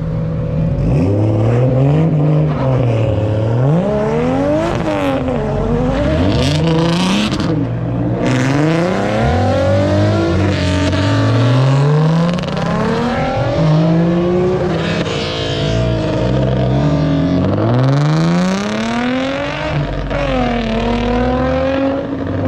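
Built Toyota 2JZ straight-six engine free-revving repeatedly, the pitch climbing and dropping every two to three seconds.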